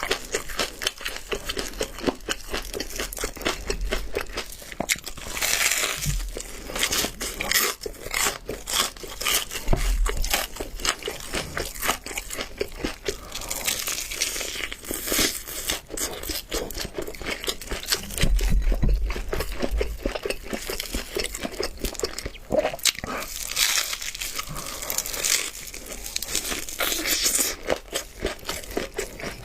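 Crunching of double-fried chicken drumsticks' crisp flour coating as they are bitten and chewed: a dense, irregular run of crackles and snaps.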